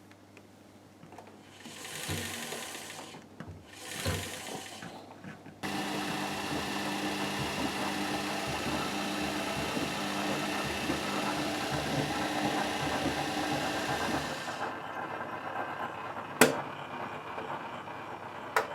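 Whirlpool AWT 2071 washing machine running: its motor and drum start suddenly about five seconds in with a steady hum and rattle, ease off a few seconds before the end, and a sharp click follows. The drive belt on this machine has been slipping off its pulleys.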